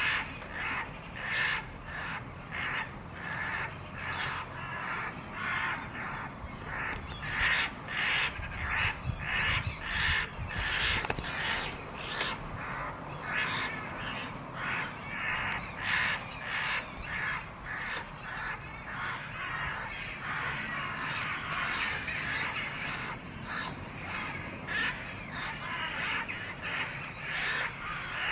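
Birds calling over and over, short calls about twice a second without a break.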